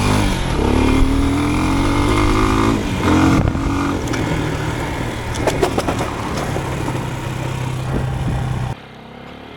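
Motorcycle engine revving as the bike accelerates over rough off-road ground, its pitch climbing over the first few seconds, then running steadily. A quick cluster of sharp clattering knocks comes about halfway through, and the engine sound cuts off abruptly near the end.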